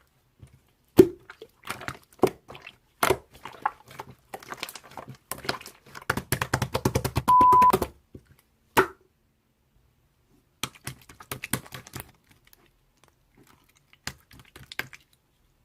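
Irregular sharp clicks and taps in a small room, thickening into a rapid flurry midway. A short steady beep comes about seven seconds in, then a pause, and the scattered clicks resume.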